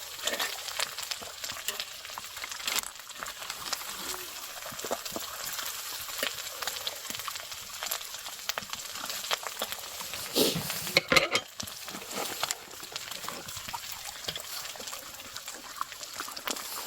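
Food sizzling as it fries in a hot pan: a steady hiss dotted with small crackles and pops, with a louder clatter of knocks a little past the middle.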